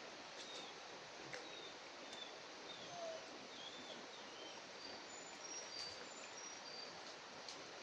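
Steady rushing of river water, with short high bird chirps scattered through and a few faint clicks.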